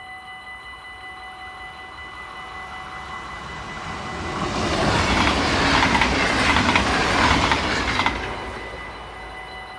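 Electric NS passenger train passing a level crossing, swelling to its loudest about five to eight seconds in with a few sharp wheel clicks near the end, then fading away. The crossing's warning bell rings steadily before and after and is drowned out while the train goes by.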